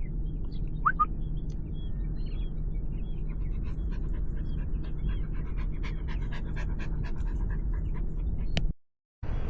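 A small dog, a toy poodle, panting in quick short breaths over a steady low rumble, with a few faint chirps higher up. The sound breaks off abruptly near the end.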